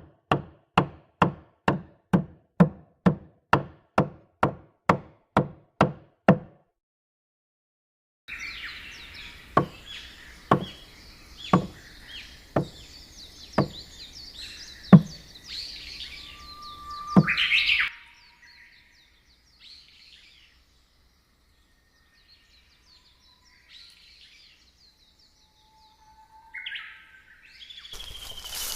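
A quick, even run of knocking strikes, about three a second, for about six seconds. After a short silence come slower single blows about once a second, with birds chirping and singing. The last stretch is nearly quiet except for scattered faint bird chirps.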